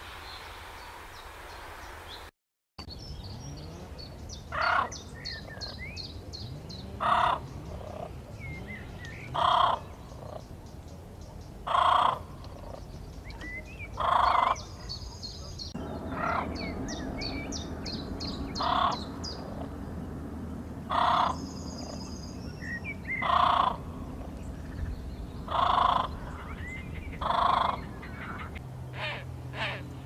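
A bird gives loud harsh caws about every two and a half seconds, over quick runs of high chirping from small songbirds.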